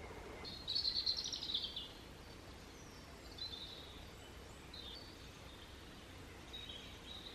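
Songbirds singing in woodland: a rapid high trilled phrase about a second in, then several shorter chirps, over a faint steady outdoor background.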